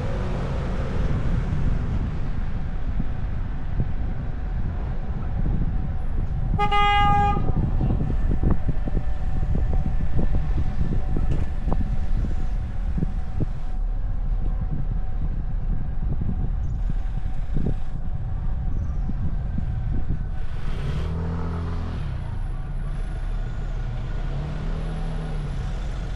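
A car driving on a winding road, with a steady low rumble of engine, road and wind noise. About a quarter of the way in, a vehicle horn gives one short toot. Later come a few fainter low sounds from passing traffic.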